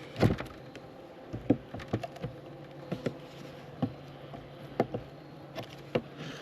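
Honeybees buzzing steadily around an opened hive, with scattered light clicks and knocks from the hive being worked.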